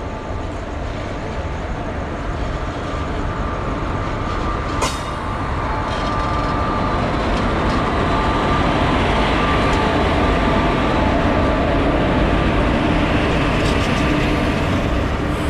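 Locomotive-hauled passenger train pulling into the station alongside: the engine running and the wheels rumbling over the rails, growing louder as the locomotive draws level and the coaches roll past. A thin steady whine sits over it, with a single sharp clank about five seconds in.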